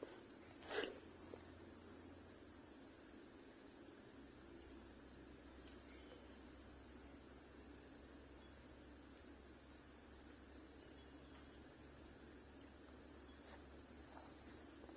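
Night insect chorus, a steady high-pitched trill that runs without a break.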